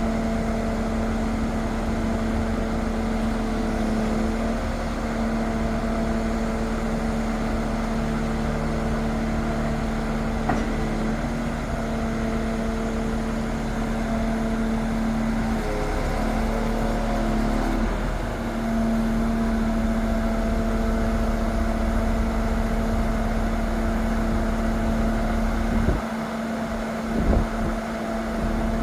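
Scania R500's V8 diesel engine running at a steady speed with a constant droning hum. The pitch wavers briefly about halfway through and again near the end.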